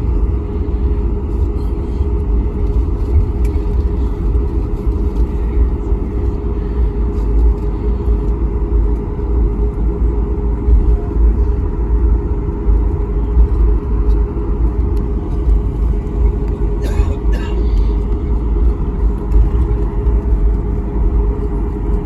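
Airliner cabin noise while taxiing: the jet engines at idle give a steady low rumble with a steady hum over it, and a couple of brief clicks sound about 17 seconds in.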